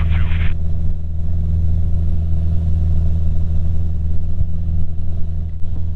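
Cessna 150's Continental O-200 four-cylinder engine and propeller droning steadily in cruise flight, heard from inside the cabin.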